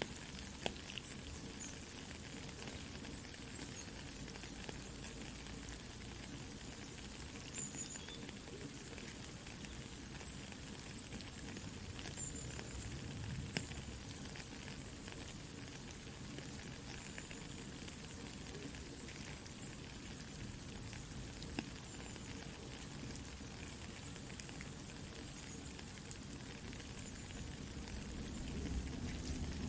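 Soft, steady rain with a campfire crackling, occasional sharp pops standing out over the even hiss.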